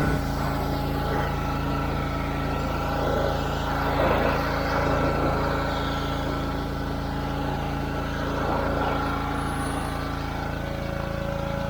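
Power washer running steadily, its motor a constant hum under the hiss of the water spray, which swells for a few seconds in the middle.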